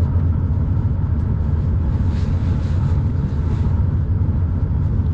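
Shinkansen bullet train running, a steady low rumble with a faint hiss above it.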